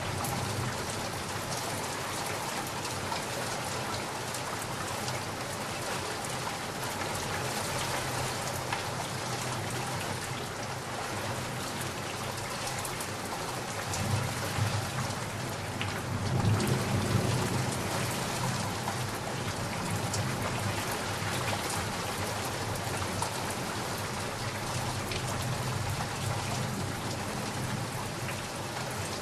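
Steady rain falling, with a roll of distant thunder rumbling low about halfway through.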